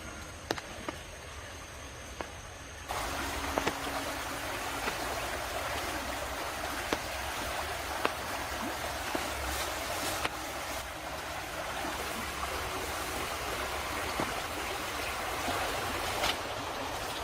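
Stream water running, coming in suddenly about three seconds in, with scattered sharp knocks over it.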